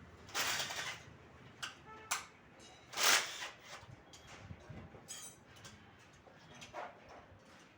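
Workshop handling noises while an engine is taken apart: two short noisy scrapes, about half a second in and about three seconds in, and a few light metallic knocks in between and near the end.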